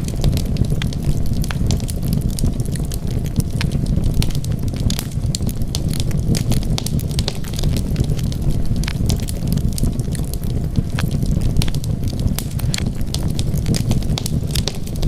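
Wood fire crackling: frequent sharp pops and snaps over a steady low rumble of burning.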